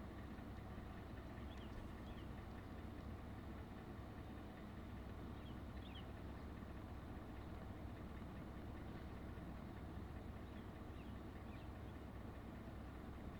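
Truck engine idling steadily, a low hum, with a few short, high bird chirps scattered through it.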